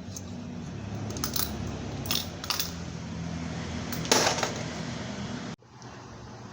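Loose metal engine parts and hand tools clinking against each other in several short sharp clinks, over a low steady hum. The sound cuts off suddenly near the end.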